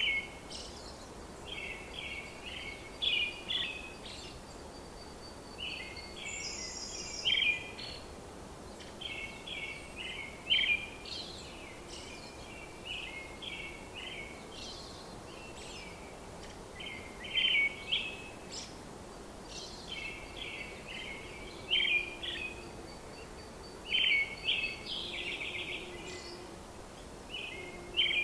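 Birds chirping and trilling in short repeated phrases over a steady background hiss.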